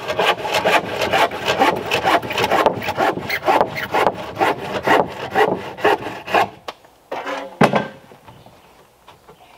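Hand saw cutting through wood in quick, even back-and-forth strokes that stop about six and a half seconds in. A single knock follows about a second later.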